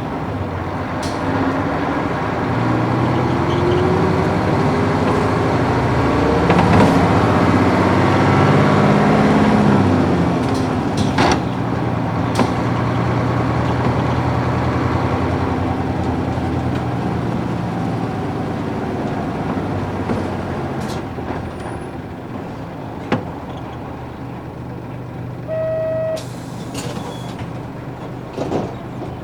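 Isuzu PF6 diesel engine of a U-UA440HSN bus heard from inside, pulling away with its pitch climbing and dipping through manual gear changes. It then runs steadily and eases off. A short electronic beep sounds near the end, among a few sharp clicks and knocks.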